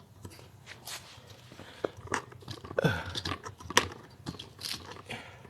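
Handling noise inside a car: scattered clicks, light knocks and rustling as things are moved about, with a brief creak near the middle.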